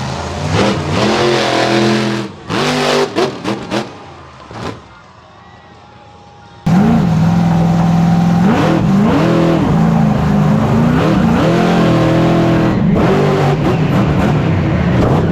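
Monster truck engines revving hard, pitch swinging up and down. The sound breaks into short blips and falls away about four seconds in, then comes back suddenly at full loudness with the engines running and revving again.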